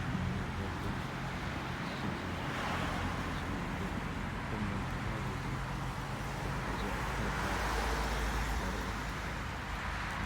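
Road traffic: a steady hum of passing cars, swelling as one goes by about eight seconds in.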